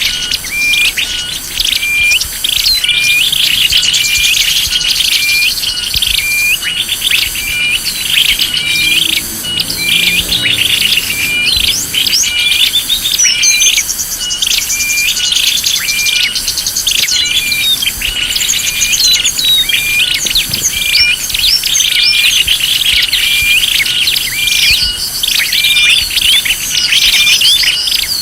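Small-bird lure call: many small birds chirping and twittering densely over one another, high-pitched, with one short chirp repeating at an even pace.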